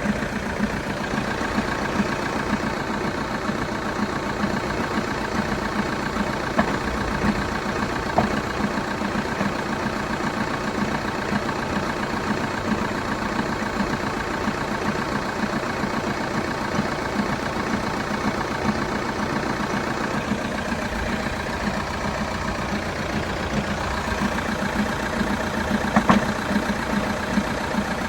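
2012 Vauxhall Astra 2.0 CDTi four-cylinder turbodiesel idling steadily on a cold start, with a rapid rattling knock that the owner is querying as a possible fault. A few sharper knocks stand out, the loudest near the end.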